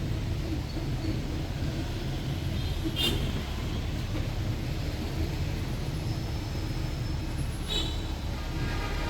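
Steady low rumble of a tour bus's engine and the road traffic around it, with two brief, sharp high sounds, one about three seconds in and one near the end.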